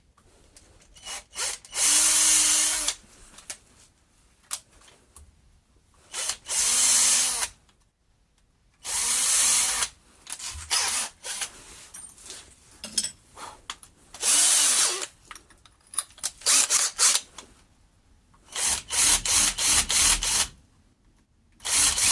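Electric drill boring screw holes in a hardwood block. There are four runs of about a second each, the motor pitch rising and falling with each one, then a string of quick short bursts near the end.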